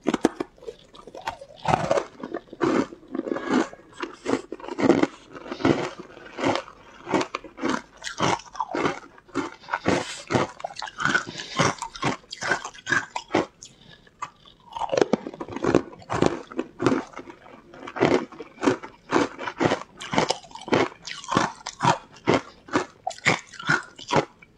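Close-up crunching and chewing of a green powder-coated chunk, sharp crunches following each other several times a second, with a brief lull about halfway through.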